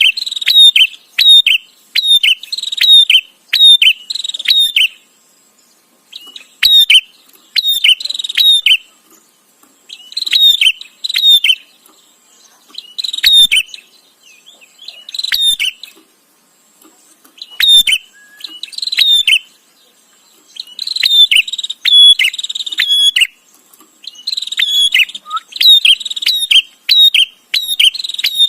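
Prenjak (a prinia) calling insistently: a rapid series of sharp, high chirping notes, about two a second, in bursts of several seconds separated by short pauses.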